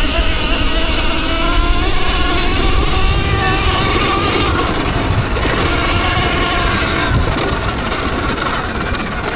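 Electric dirt bike motors whining while riding, their pitch slowly rising and falling, over a steady low rumble.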